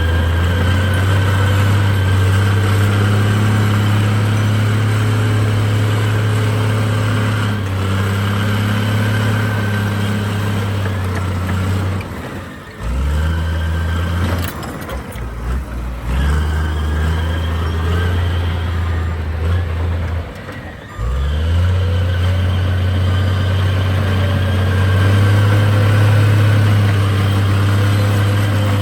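Heavy diesel engine of construction machinery running with a steady low drone, easing off briefly a few times about halfway through before picking up again.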